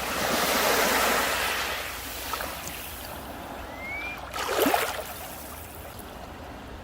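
Sea waves breaking on a beach: one wave surges in and washes up the shore in the first two seconds, and a smaller, sharper break splashes about two-thirds of the way through, over a steady hiss of surf.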